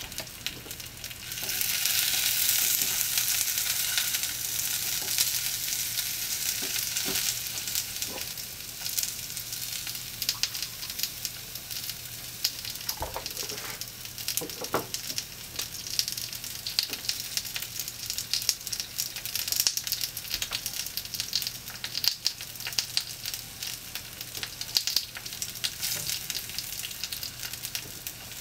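Potato wedges and broccoli frying in a small cast-iron skillet: a steady, hissing sizzle dotted with crackling pops. It grows much louder about a second and a half in, and a few soft knocks come about halfway through.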